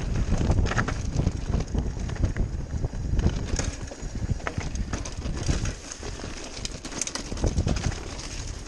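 Bicycle riding over a rough dirt trail: a steady low rumble with frequent irregular knocks and rattles.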